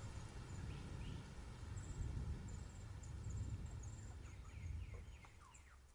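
Outdoor ambience with low wind rumble and small birds chirping, then a quick run of short falling chirps near the end as the sound fades out.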